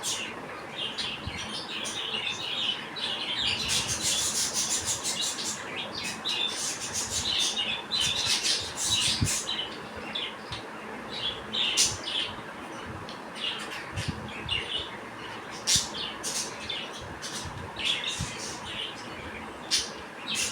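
Several budgerigars chirping and squawking in a continuous, busy chatter of short calls.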